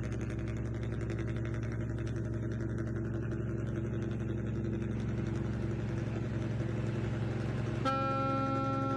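Steady low engine hum, as from a remote-control bus model's engine sound. A sustained horn blast starts suddenly near the end and holds.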